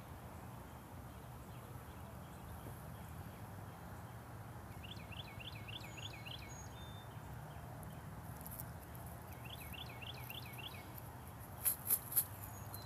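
A songbird singing a quick run of about five notes, twice, over a steady low background hum. Near the end, three sharp clicks.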